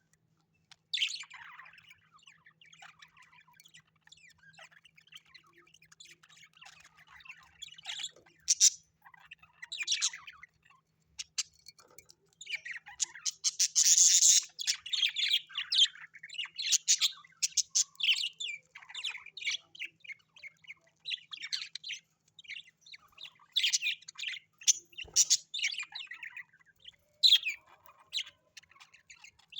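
Cage birds chirping and squawking in quick, overlapping calls that start about a second in and grow busier and louder about halfway through, with a faint steady hum underneath.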